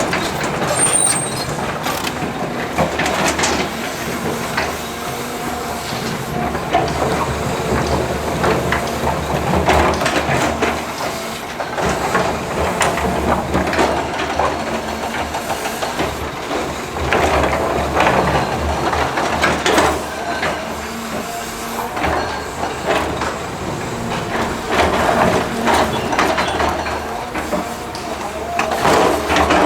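Heavy construction machinery at work: a diesel engine running with a continuous clatter of knocks and scrapes, as of rock and metal being moved.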